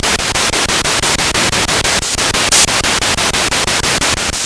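Spirit box sweeping through radio stations: loud static hiss chopped into rapid, regular bursts several times a second as the tuner jumps from channel to channel, with a brief louder burst of hiss about two and a half seconds in.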